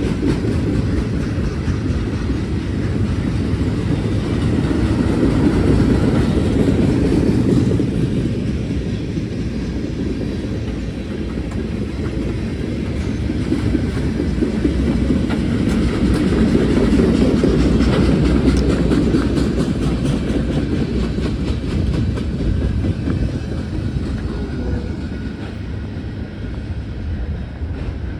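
Freight train cars loaded with military trucks rolling past, steel wheels rumbling on the rails with a faint clickety-clack over the joints. The rumble swells twice, then fades toward the end.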